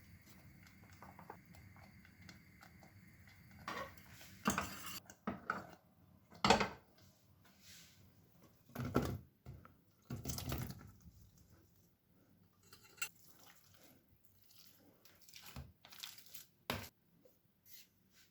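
Kitchen dishes and utensils being handled: a series of knocks, clinks and clatters, the loudest about six and a half seconds in, after a few seconds of faint steady hum.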